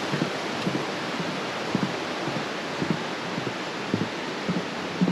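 Steady rushing of a river flowing through a valley, with soft low knocks about once a second.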